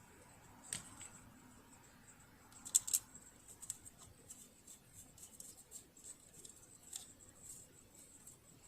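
Scattered light clicks and taps of hands and small tools working on a sewing machine's metal parts, the sharpest about a second in and a close pair near three seconds, then lighter ticks.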